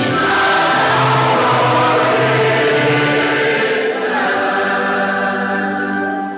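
A choir singing in several voices with long held notes, the final note fading away right at the end.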